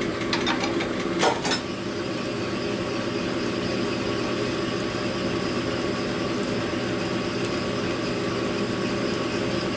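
Cylinder hone running steadily, its stones working inside a Harley shovelhead engine cylinder to bring it to final clearance, with a couple of sharp knocks in the first second and a half.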